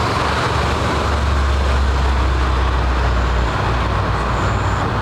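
A car's engine running with a steady deep low drone under a broad rushing noise.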